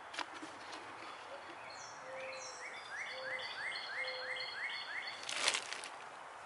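A songbird singing a run of quick, rising whistled notes, about three a second, with a few higher falling notes above them. Near the end comes a short, loud crinkle of a plastic bag of topsoil being handled.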